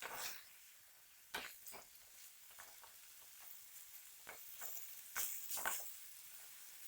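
Chicken pieces frying in oil in a pan, a faint sizzle with several irregular scrapes and knocks of a utensil against the pan as they are stirred, the loudest a little after five seconds in.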